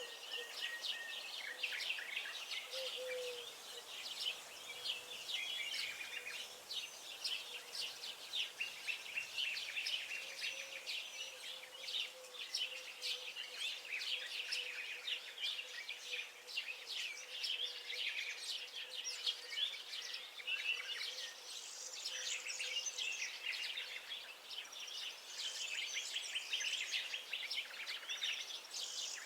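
Several songbirds chirping and singing at once, quick overlapping calls and trills that keep going without a break, over a faint steady hum.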